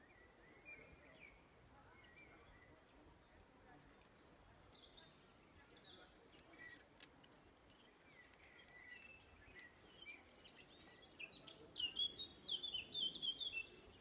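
Small birds chirping faintly over quiet outdoor background, with a few soft clicks about halfway through and a quick, louder run of chirps near the end.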